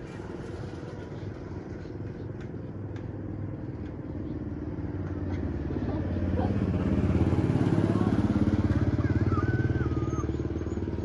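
A small engine running, growing louder about halfway through as it comes close and staying loud after that.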